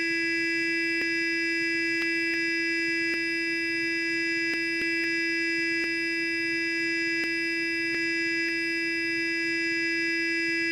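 Electric sonic toothbrush running with a steady, even buzzing hum at one constant pitch.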